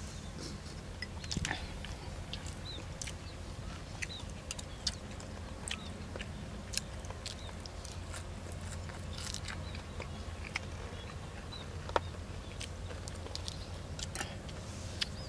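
Close-miked chewing and mouth sounds of a man eating boiled chicken and raw greens by hand, with many short wet clicks and snaps and one sharper click near the end, over a steady low rumble.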